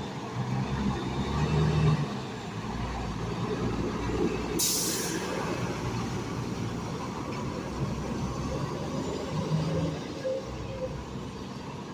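Heavy truck's diesel engine running steadily at low revs, with a short, sharp air-brake hiss a little under halfway through.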